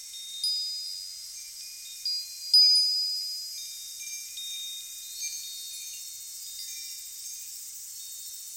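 Wind chimes ringing in the breeze: high notes struck at irregular moments and left to ring out and overlap, the loudest strike about two and a half seconds in, over a faint steady hiss.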